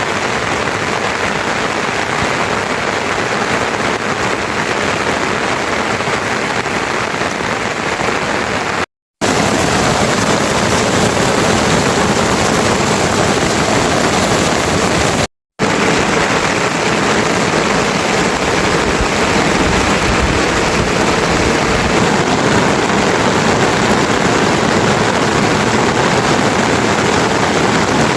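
Heavy rain falling in a steady, dense hiss, broken twice by a momentary drop to silence, about nine and fifteen seconds in.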